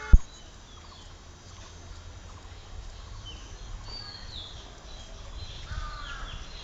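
A sharp low thump just after the start, then scattered faint bird calls, short chirps and whistles, over a low background rumble.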